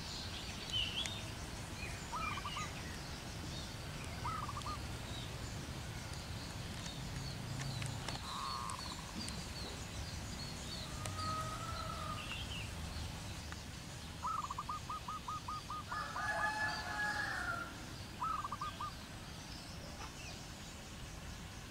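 Wild birds calling in the treetops: short groups of repeated notes, with a quick run of about ten notes a little past halfway, and scattered higher chirps over a low steady background hum.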